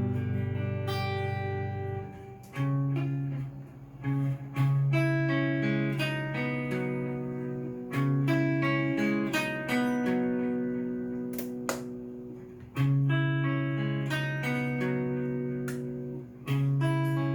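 Cort S series electric guitar played clean straight into a Fender amp. Chords and single notes are picked in a slow pattern, each struck and left to ring out and fade.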